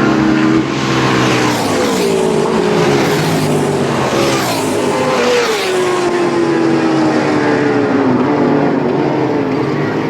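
Racing motorcycles passing at speed on a road circuit, their engine notes falling in pitch as each goes by, several in succession.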